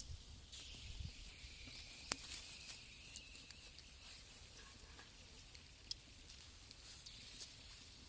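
Faint crackling of a wood fire in a brick rocket stove, with scattered small pops and one sharp crack about two seconds in.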